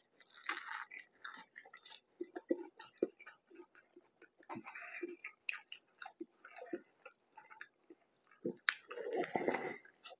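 A man biting into and chewing a mouthful of ground pork mac and cheese burger on toasted bread, with irregular wet mouth smacks and clicks. The chewing is louder about half a second in and again near the end.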